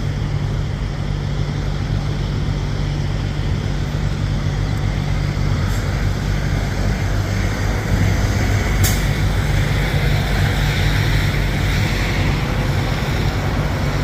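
Semi-truck diesel engine running steadily, heard from inside the Peterbilt's cab, with a hiss that grows louder about halfway through and a single sharp click about nine seconds in.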